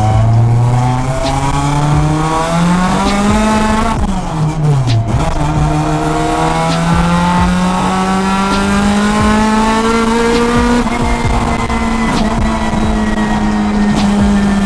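Honda Integra DC2 Type R engine under hard acceleration. The revs climb through one gear, drop sharply at a gearshift about four seconds in, then climb through the next gear before levelling off and easing slightly near the end.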